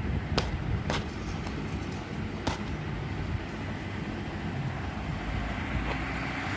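Steady low background rumble with three sharp clicks, about half a second, one second and two and a half seconds in.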